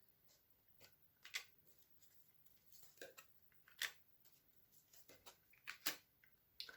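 Tarot cards being handled: scattered soft clicks and rustles of cards, the loudest about one, four and six seconds in, otherwise near silence.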